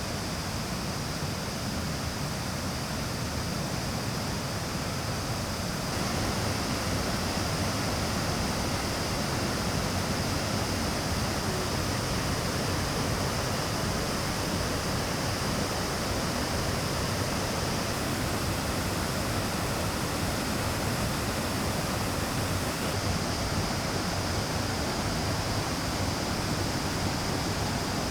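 Choshi Falls on the Oirase Stream: the steady rush of a waterfall's falling water, growing a little louder about six seconds in.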